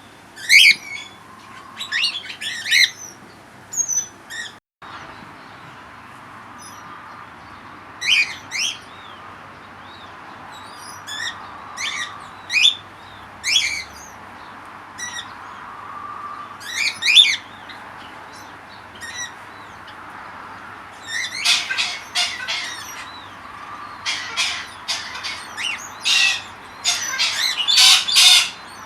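Birds in a mixed aviary calling, with short, high chirps and calls scattered at first and growing busy and overlapping in the last several seconds.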